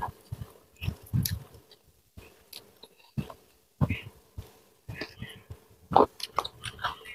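Close-miked chewing and mouth sounds of someone eating by hand, in irregular smacks and clicks, loudest about six seconds in.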